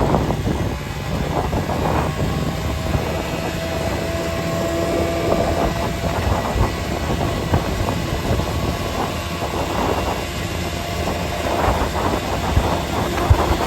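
Moving vehicle's steady road rumble with irregular knocks and rattles.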